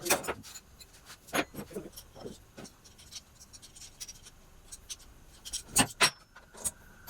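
Irregular light clicks and knocks of objects being handled, with a sharp knock at the start and two loud knocks close together near the end.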